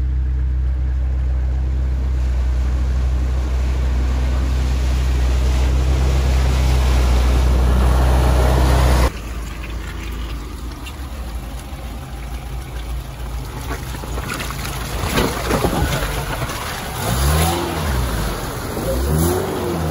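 Lada Niva on the move: a steady low engine drone for about nine seconds, then an abrupt change to a rougher mix of engine and road noise, with a few brief rises and falls in engine pitch near the end.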